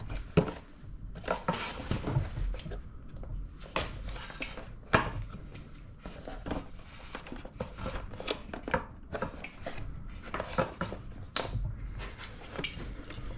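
Irregular clicks, knocks and light clatter of hard parts being handled and moved during disassembly of a pancake air compressor, no steady rhythm.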